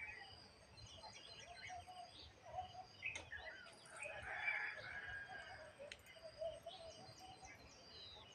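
Faint birds chirping and calling, many short repeated high chirps, with a couple of light clicks.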